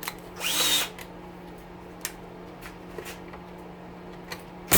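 Screwdriver work on oven parts: a brief whirr with a rising whine about half a second in, then a few light metallic clicks and a sharp click near the end. A steady low hum from a kitchen stove fan runs underneath.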